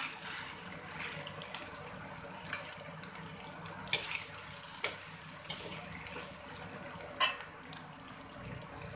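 Chicken frying in a wok with a steady hiss. A metal spatula clinks and scrapes a few times as it scoops the food out of the wok and onto a plate.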